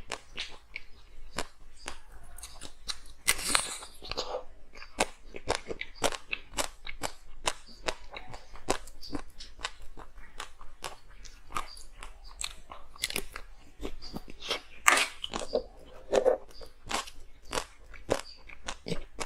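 Frozen ice being bitten and chewed close to the microphone, with a steady run of sharp crackling crunches. There are louder, longer crunches about three and a half seconds in and again about fifteen seconds in.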